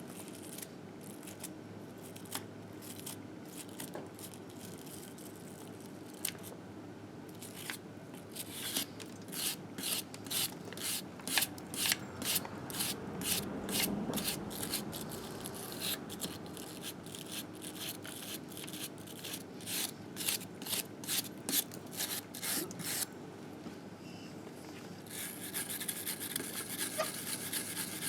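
Grime being scrubbed off a Harley-Davidson Sportster engine case in short back-and-forth strokes, about two a second, from about a third of the way in. Near the end it turns into faster, steadier scrubbing.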